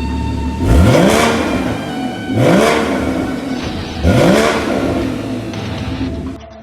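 Porsche 981 Boxster GTS flat-six with sports exhaust, idling and then blipped three times, each rev rising sharply and falling back to idle.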